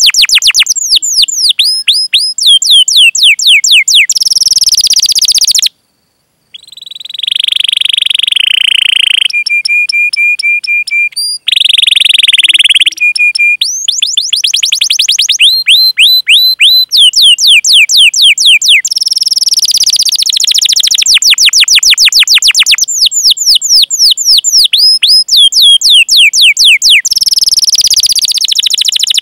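Domestic canary singing loud, fast runs of sharp descending 'cuit cuit' call notes. About six seconds in there is a brief break, then sustained rolled trills, and then the rapid call notes return.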